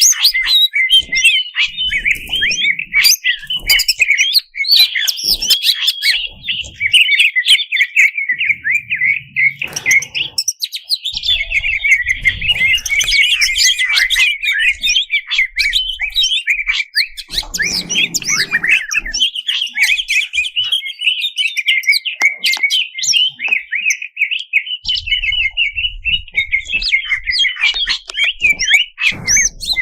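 Cucak cungkok leafbird singing a continuous, rapid, varied chattering song packed with changing phrases, with no break.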